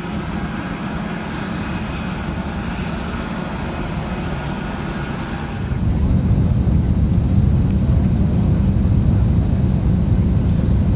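Steady jet aircraft noise on the airport ramp, a low rumble with hiss. About six seconds in it turns abruptly louder and deeper.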